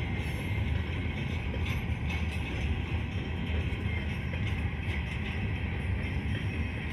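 Freight train of coal hopper cars rolling past, their steel wheels and bogies rumbling steadily and clacking over the rail joints, with a few scattered clicks, heard from inside a car.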